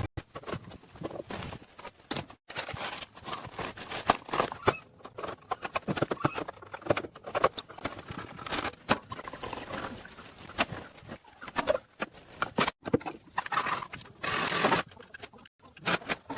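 A rapid, irregular series of short taps, clicks and scrapes that stops and starts, with brief pauses.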